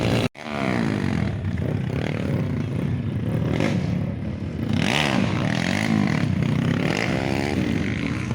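Motocross bike engine revving, its pitch rising and falling several times over, after a brief dropout right at the start.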